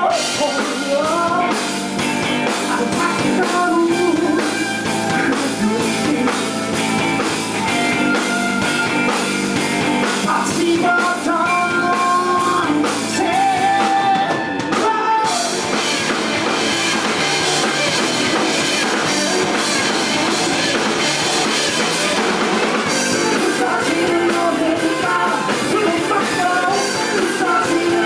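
Live rock band playing in a club: a singer over drums and electric guitar, with a short break about halfway before the full band carries on.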